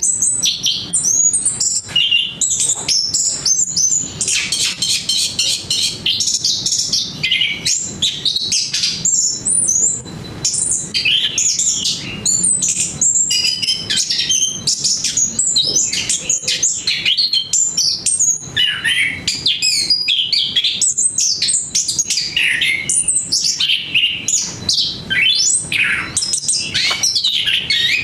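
Chestnut-capped thrush (anis kembang) singing a continuous, melodious song of rapid, varied high notes and trills with no pauses.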